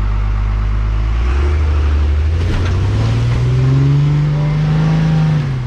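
Four-wheel-drive vehicle's engine revving hard under load as it powers up an off-road obstacle in snow: the revs climb over the first few seconds, hold high, then drop off near the end.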